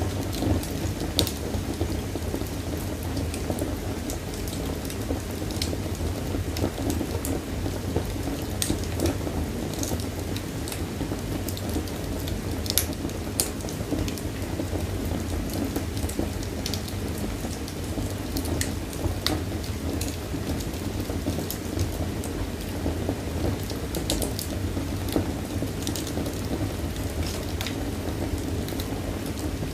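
Wood fire burning in a fireplace, crackling and popping irregularly over a steady low rumble of flames, with a few sharper snaps.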